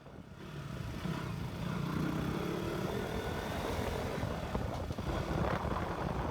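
Motorcycle engine running while riding, its pitch drifting up and down with the throttle, over steady wind and road noise.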